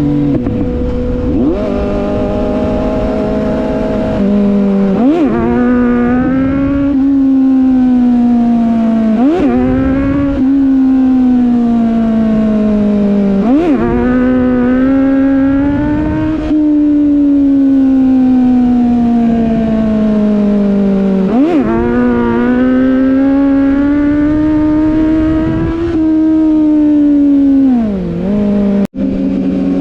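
Sport motorcycle engine running on the road, its pitch drifting slowly with the revs. Every few seconds the revs dip sharply and come back as it shifts gear, about five times.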